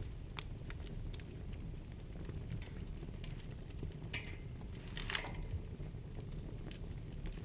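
Wood fire burning in a fireplace: a steady low rumble of flames with scattered sharp crackles and pops, and two bursts of sizzling crackle at about four and five seconds in.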